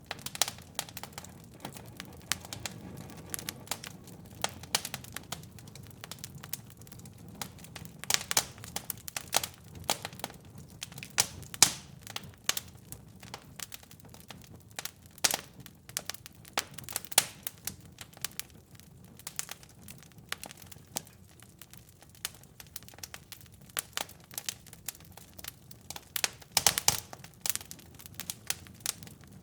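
Wood fire crackling and popping in a fireplace: irregular sharp snaps and pops over a low steady rush of burning.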